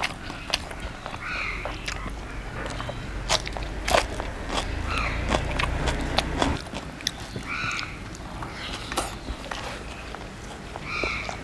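Close-up eating sounds: a person biting and chewing crisp food, with many sharp crunches, the loudest about four seconds in. A short animal call sounds four times in the background.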